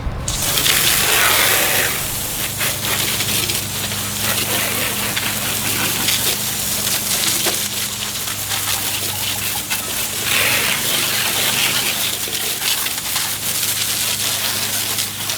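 Water spraying onto a boat's transom for the final rinse after degreasing: a steady rushing hiss of water striking and splashing off the hull, swelling louder near the start and again about ten seconds in. A steady low hum runs underneath.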